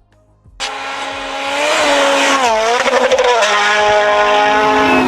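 A racing car at speed, engine revving hard with tyres squealing; it cuts in suddenly about half a second in, its pitch dipping and climbing again about two seconds later.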